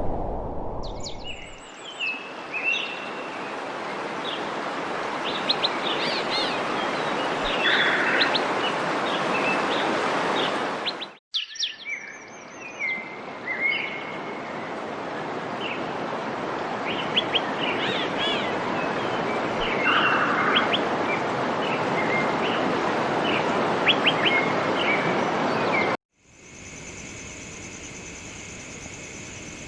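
Songbirds chirping and trilling over a steady hiss. The sound cuts off abruptly twice, about 11 seconds in and near the end. After the last cut only a quieter, steady high-pitched whine remains.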